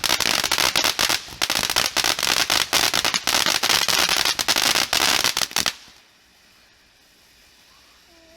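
Consumer firework crackling with a dense, rapid string of sharp pops that cuts off suddenly about six seconds in.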